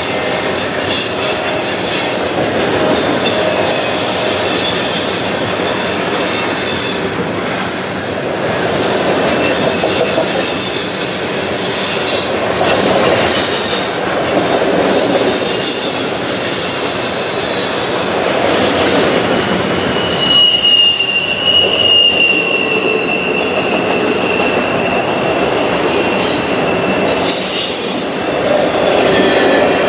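Freight cars (steel-coil cars, then autoracks) rolling past at close range, their wheels rumbling on the rail and swelling as each car goes by. A brief high wheel squeal comes about seven seconds in, and a longer, lower squeal from about twenty seconds in until near the end.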